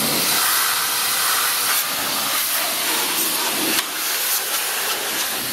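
High-pressure water from a car-wash spray wand blasting grime off the deck of a walk-behind leaf blower: a steady, loud hiss of spray.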